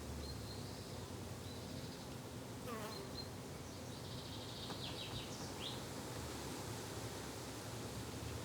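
Flying insect buzzing with a steady low drone, with birds chirping in the background and one falling whistle about three seconds in.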